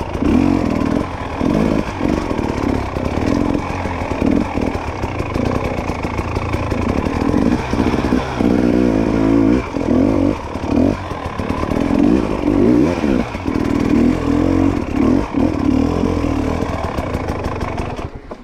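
Dirt bike engine revving up and down in short bursts of throttle while being ridden over rough trail, with knocks and rattles. The engine sound drops away near the end.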